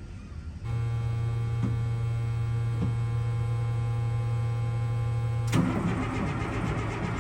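Cold start of an M35A2 truck's multifuel inline-six diesel at 9 °F. A steady whine starts under a second in, then a sharp click about five and a half seconds in, after which the engine catches and runs unevenly.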